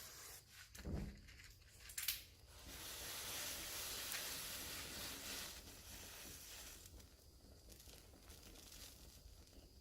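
Matches catching fire: a sharp strike about two seconds in, then a hissing flare that lasts about three seconds and dies down.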